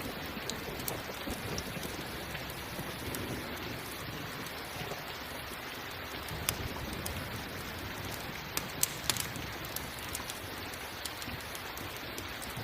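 Steady rain falling, mixed with a crackling campfire that gives off a few sharp pops, most of them bunched together about two-thirds of the way through.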